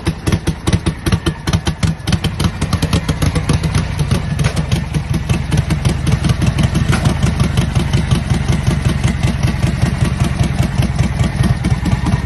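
Harley-Davidson WLA's 45-cubic-inch flathead V-twin running just after a cold start, firing unevenly for the first couple of seconds, then settling into a steadier idle.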